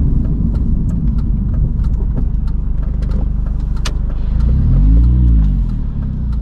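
Car engine and road noise heard from inside the cabin while driving, a steady low rumble. About four seconds in the engine note rises and then falls back once over a second or so.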